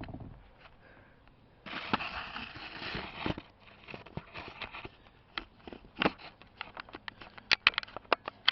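Rustling and scraping handling noise of the recording camera being moved about. It is followed by a run of irregular clicks and taps.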